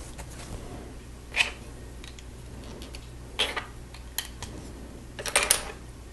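Plastic Lego pieces clicking and rattling as they are handled and pressed together: short clicks about a second and a half in and again around three and a half and four seconds, then a quick loudest cluster of clicks near the end. A steady low hum runs underneath.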